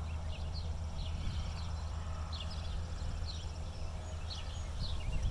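Birds chirping repeatedly outdoors, short high falling chirps two or three a second, over a steady low rumble.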